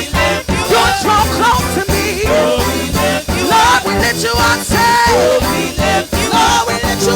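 Upbeat gospel worship music: a band with drums keeping a steady beat, and a voice singing the melody over it.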